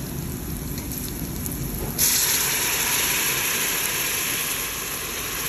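Sliced onions sizzling in hot oil in a steel pot as they are browned for a curry base. About two seconds in, the sizzle turns into a louder, steady hiss.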